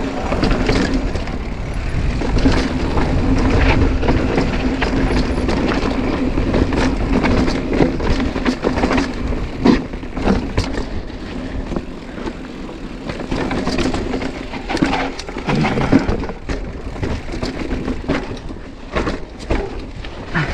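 Mountain bike riding down a rocky trail: tyres crunching and knocking over rocks, wind rumbling on the helmet or bike microphone. A steady buzz from the coasting rear hub runs under it and stops about three quarters of the way through.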